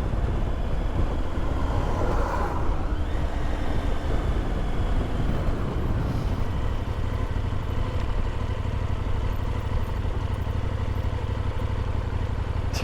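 Adventure motorcycle's engine running steadily while riding, with a low drone and wind and road noise.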